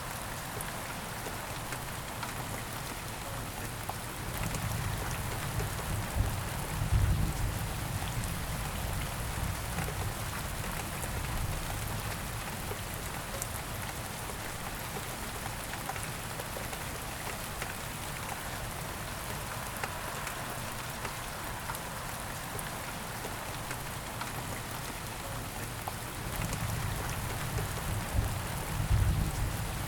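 Steady rain falling as an even hiss. A low rumble swells twice, about a quarter of the way in and again near the end.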